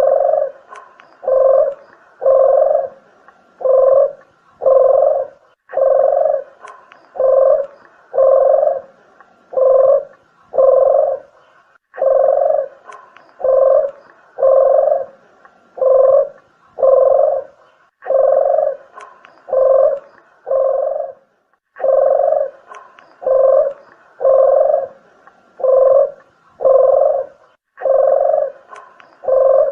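Red collared dove (puter geni) cooing, played as a bird-lure call: phrases of five or six low coos about a second apart, the phrase repeating every six seconds or so.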